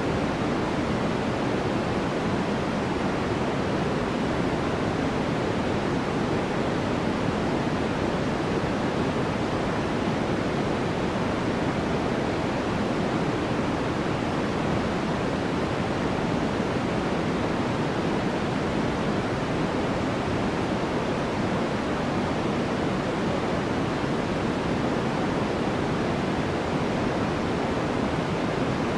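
Steady white noise with an even, unbroken hiss that is heavier in the low-middle range than at the top.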